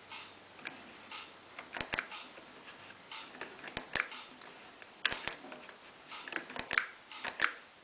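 Push buttons on the control panel of a Miele PW 6055 Plus washing machine clicking as they are pressed, in quick double clicks, five times over.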